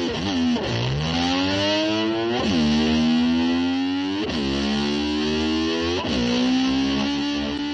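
Distorted electric slide guitar imitating a motor scooter revving and shifting: the note drops sharply in pitch and glides back up to hold, four times, about every two seconds.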